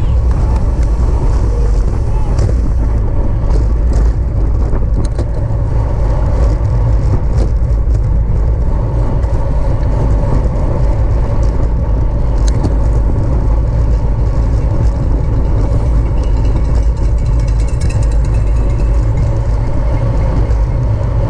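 Steady wind rush on the microphone of a camera riding along in a bicycle race, with road noise underneath and a few sharp clicks.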